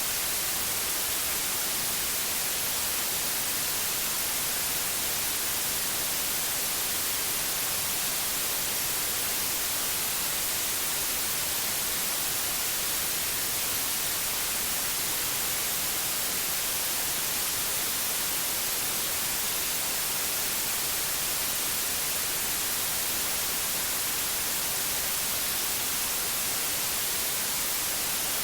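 Steady electronically generated white noise: an even, unbroken hiss, brightest in the treble.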